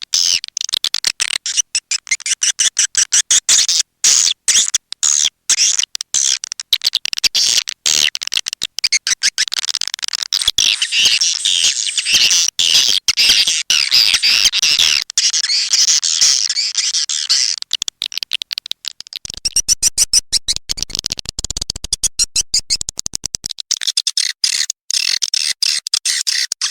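Swiftlet calling track: dense, fast, high chirping and twittering of many swiftlets, full of tiny gaps. It is a lure call of the kind played in swiftlet houses to draw the birds in. About two-thirds of the way through a low rumble runs under the chirping for a few seconds.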